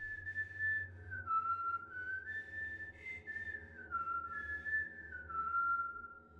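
A slow whistled tune: one clear tone stepping up and down between a few notes, over a low steady hum. It is the eerie whistling heard in the horror film's soundtrack.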